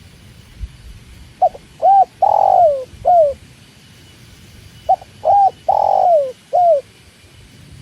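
Spotted dove (tekukur) cooing: two four-note phrases a few seconds apart, the third note of each longer and falling in pitch.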